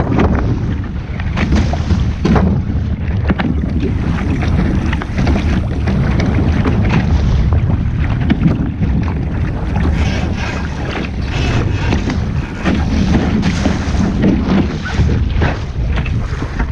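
Wind buffeting the microphone on a sailing boat underway: a loud steady rumble broken by frequent sharp gusts, with water noise beneath.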